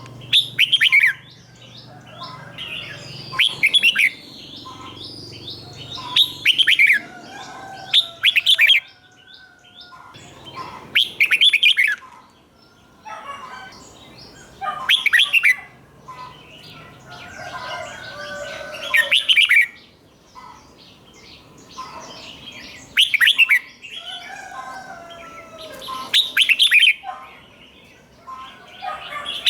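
Red-whiskered bulbul singing: about ten loud, quick warbled phrases a few seconds apart, with softer chattering notes between them.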